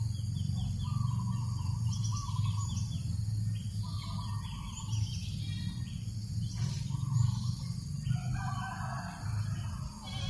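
Birds chirping and calling in short repeated phrases, over a steady low rumble.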